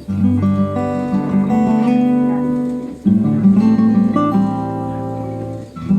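Background music: strummed acoustic guitar chords, changing about every three seconds.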